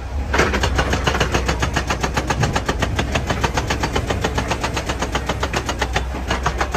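Excavator-mounted hydraulic breaker hammering rock in rapid, even blows, about nine or ten a second, over the excavator's steady engine. The hammering starts just after the beginning and stops near the end.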